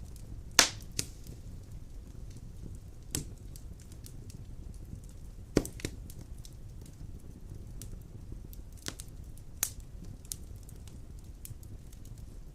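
Wood fire of large logs burning in a stone fireplace: a steady low rumble with sharp, irregular crackles and pops, the loudest about half a second in and near the middle.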